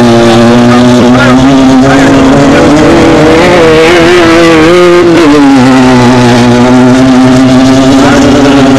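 Off-road desert race car's engine running loud, picked up by the microphone inside the car. Its pitch climbs a little a few seconds in, then settles back down.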